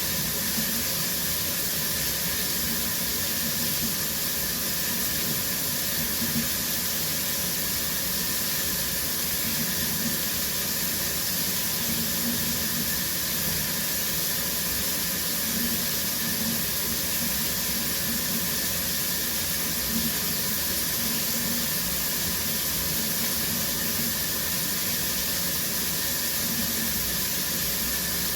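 Shower running steadily: a constant hiss of water spraying from the shower head and splashing, with no breaks or changes.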